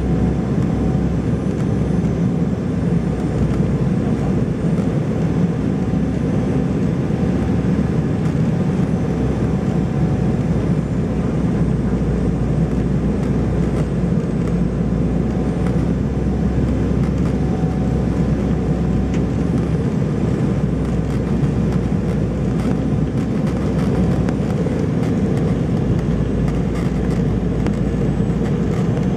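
Steady cabin noise of an Embraer 190 airliner in flight: a constant low rumble of its turbofan engines and airflow past the fuselage, with a faint steady whine on top.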